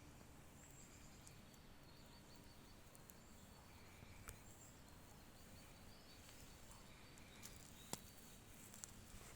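Near silence: a faint outdoor hush with a few faint, short, high bird calls and a couple of soft clicks.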